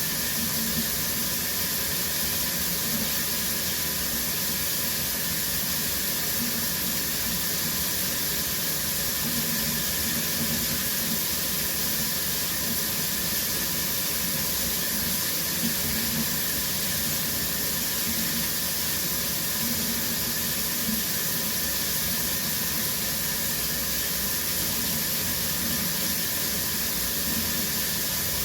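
Shower running steadily, a constant hiss of water spraying from the shower head and falling.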